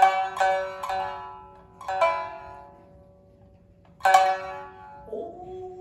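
Shamisen plucked in a shinnai-bushi accompaniment: three quick notes, a couple more about two seconds in and a strong one about four seconds in, each ringing and fading. Near the end the singer's voice slides up into a long held note.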